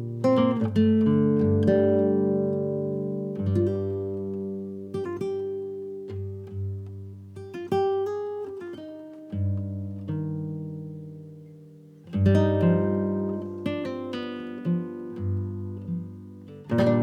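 Background music: acoustic guitar playing a slow, gently picked melody with chords that ring and die away, and a short quick run of notes about eight seconds in.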